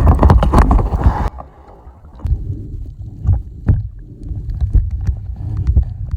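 Loud splashing water, then about a second in the sound turns suddenly muffled as the microphone goes under water: a low underwater rumble with scattered small clicks.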